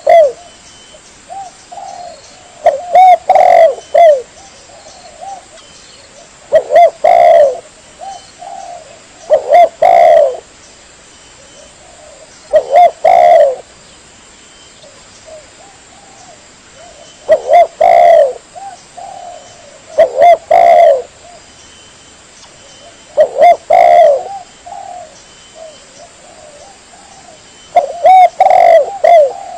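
Spotted dove (tekukur) cooing, played as a trapping lure call: a short phrase of a few coos, repeated about every three seconds, loud.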